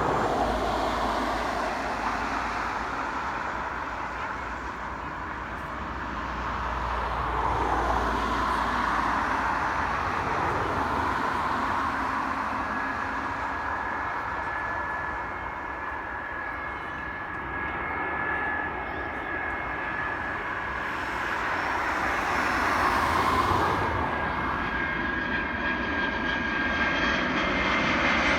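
Airliner engines running, a continuous rumble that swells and fades, with a faint steady whine coming in about halfway through.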